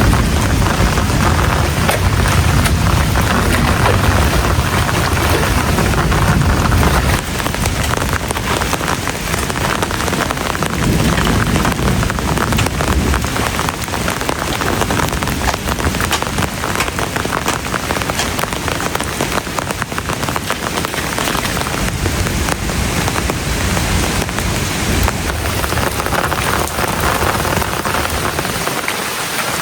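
Heavy rain pouring steadily, with a low rumble of thunder through the first several seconds and again briefly near the middle.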